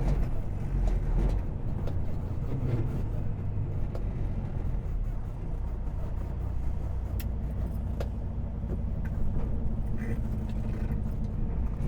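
Semi truck's diesel engine running with a steady low rumble, heard from inside the cab, with a few faint clicks.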